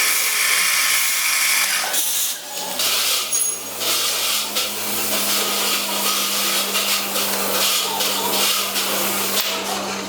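A small power tool runs with a steady high whine and stops about two seconds in. Then comes rough, irregular rasping and rubbing, as of hand work on a metal part, over a steady low hum.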